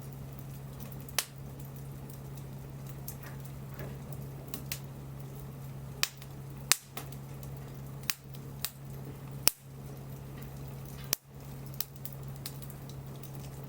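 Wood bonfire crackling: a dozen or so sharp pops and snaps at irregular intervals, some of them loud, over a steady low hum.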